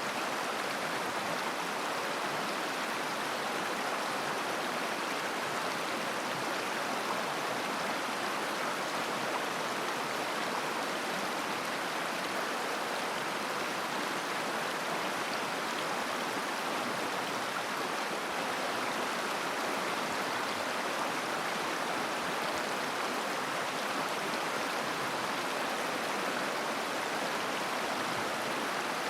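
River babbling over its bed, a steady, unbroken rush of flowing water.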